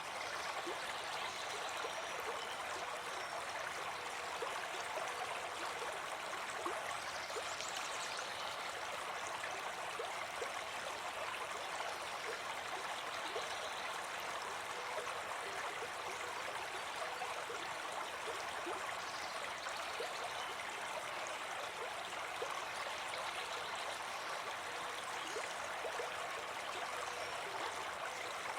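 A brook babbling steadily, an even rush of water with small trickling splashes.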